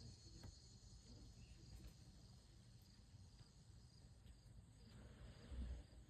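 Faint steady high-pitched insect trilling, like crickets, over low rumble, with a soft low thump about five and a half seconds in.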